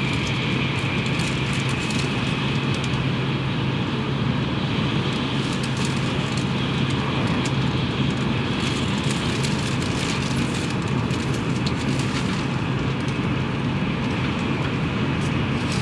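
Tokaido Shinkansen train running at speed, heard inside the passenger cabin: a steady rumble and rushing noise with a constant low hum.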